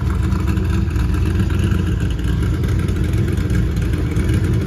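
Small-block Ford V8 in a Cobra-style roadster idling steadily through its side-exit exhaust pipes, just after a cold-shop start.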